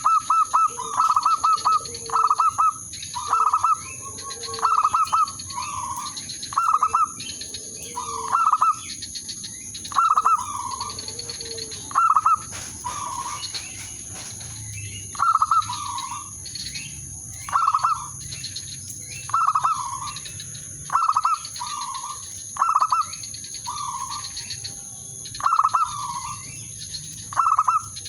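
Zebra dove (perkutut) cooing: a series of short, rapidly burbling coos repeated about once a second, with a brief pause partway through. A steady high-pitched hiss runs beneath.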